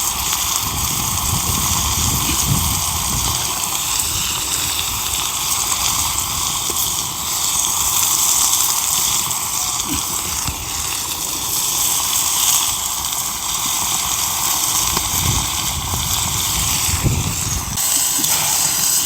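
Steady, loud sizzling hiss from food frying on a wood-fired iron griddle, with low, uneven rumbling of wind on the microphone beneath it.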